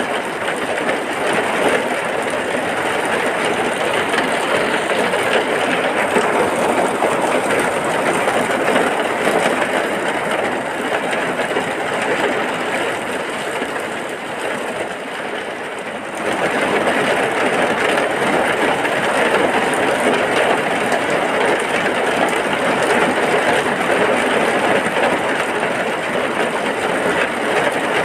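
Heavy rain pouring steadily. It eases a little about halfway through, then picks up again.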